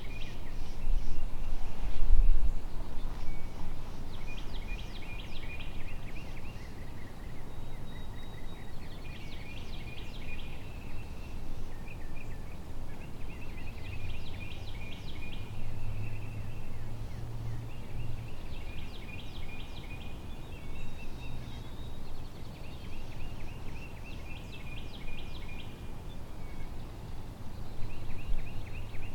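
A songbird singing the same short, high, trilled song again and again, about every four to five seconds, over a low outdoor rumble.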